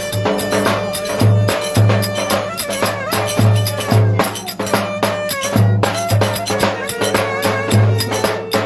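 A band playing lively folk dance music, with a heavy drum beat under a wavering melody line and shaking percussion.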